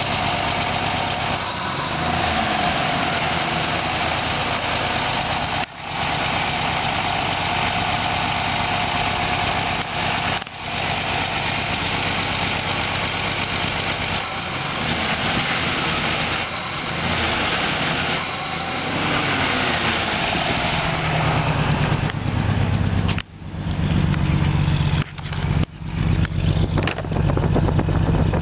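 1939 Dodge D11's 218 flathead straight-six running at idle, rough and misfiring. The low-pitched running sound grows stronger in the last third, and the sound cuts out briefly a few times near the end.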